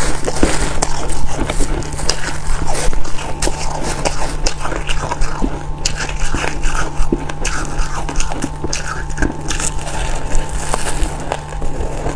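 Someone biting and chewing freezer frost: a dense, irregular run of sharp crunches over a steady low hum.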